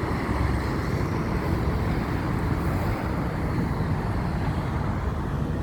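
Steady road-traffic noise: a constant low rumble of vehicles and tyres with no distinct passes or pitch changes.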